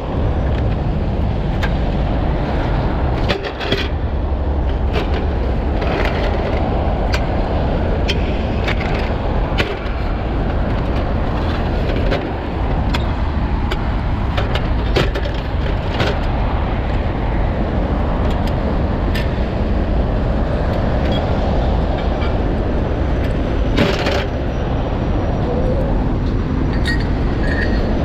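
Heavy truck engine running steadily, with scattered metal clanks and knocks from the rigging.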